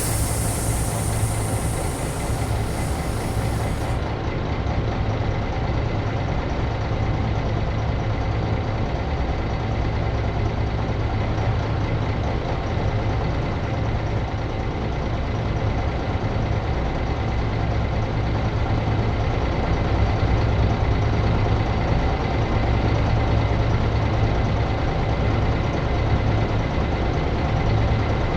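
Bus diesel engine idling with a steady drone, a little louder in the last third. A high hiss runs over it and cuts off about four seconds in.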